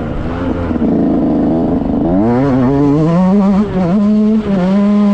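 KTM SX 65 motocross bike's 65 cc two-stroke single-cylinder engine, heard on board, revving hard under acceleration: the pitch climbs for about two seconds, holds high, drops briefly about four seconds in, then picks up again.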